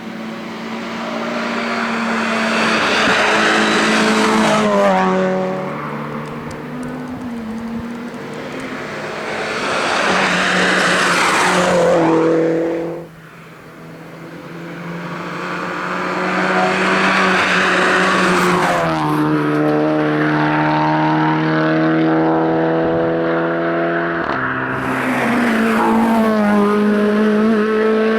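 Race car engines running at high revs on a hill climb, each rising in pitch and dropping at every gear change as the cars pass. About halfway through the sound falls away sharply, then another engine builds up and shifts up again.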